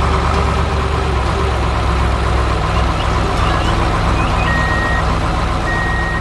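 Heavy construction vehicle engine running with a steady low rumble. Near the end, two long reversing-alarm beeps sound.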